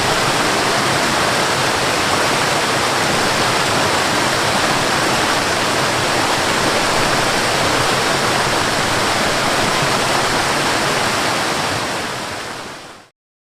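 Waterfall: a steady, dense rush of falling water that fades out over the last second or two and ends in silence.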